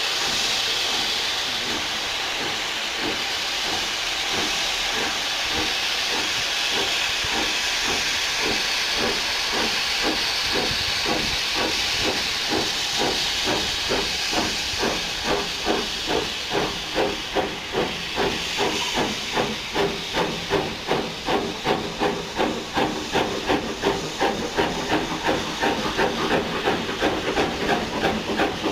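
Steam locomotive hissing steam, then its exhaust beats coming through about halfway in: steady chuffs at about two a second, growing louder as it works.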